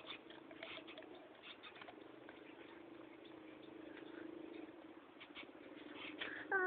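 Myna chick making faint scratchy squeaks and shuffling ticks over a steady low hum, then a louder call that slides down in pitch near the end.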